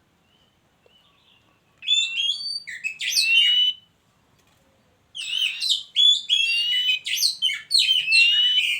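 Oriental magpie-robin (kacer) singing: two loud bursts of rapid, varied whistled notes, the first about two seconds in and the second from about five seconds in.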